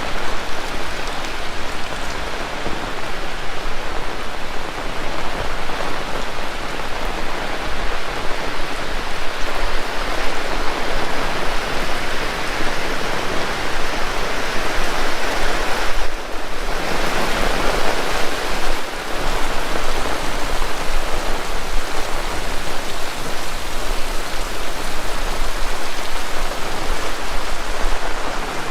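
Heavy rain falling steadily, a dense hiss of drops striking surfaces, briefly thinning about sixteen seconds in.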